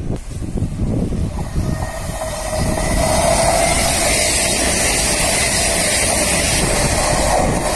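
CrossCountry diesel passenger train running through the station close by at speed. The rumble of its approach builds into a loud, steady rush of wheels on rail and air about three seconds in, with a steady hum underneath.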